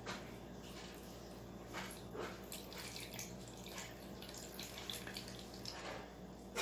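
Water being poured into a bowl, a faint, irregular trickling and splashing.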